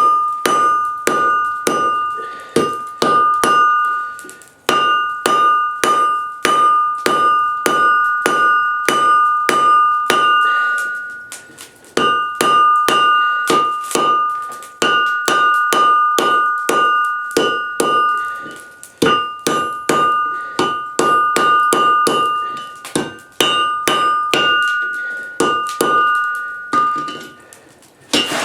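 Blacksmith's hammer striking steel on an anvil, a little over two blows a second in four runs separated by short pauses. Each blow sets the anvil ringing with a clear, steady tone.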